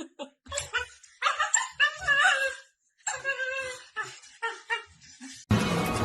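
A dog vocalizing in a run of short yips and longer wavering whines. Music cuts in suddenly near the end.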